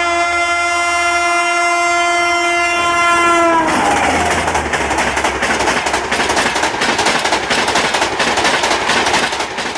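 WAP-7 electric locomotive sounding its multi-tone horn, held long and dropping in pitch as the locomotive passes about three and a half seconds in. Then its coaches rush past at speed, wheels clattering rapidly over the rail joints.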